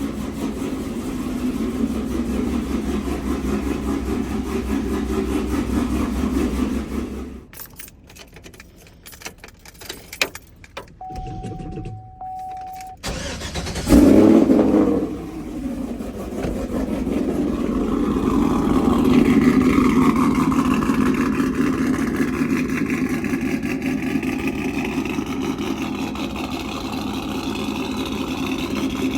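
A 2005 GMC Sierra pickup's engine idles and is shut off about seven seconds in. A few clicks and a steady beep lasting about two seconds follow. About fourteen seconds in the engine cranks and catches with a loud burst, then settles into idle with a brief rise in revs.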